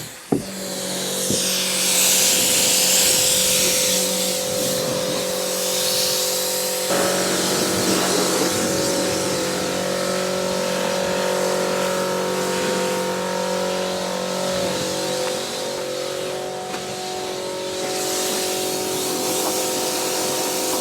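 Pressure washer running steadily, its spray jet hissing against the tractor, with a short break just after the start.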